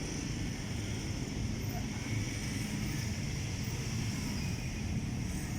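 Steady low rumble of distant jet engines across an airfield, with a faint high hiss running over it.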